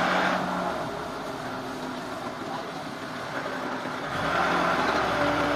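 An engine running steadily, louder again from about four seconds in.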